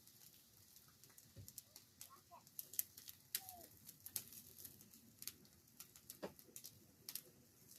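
Bonfire burning, its wood giving faint, irregular crackles and snaps.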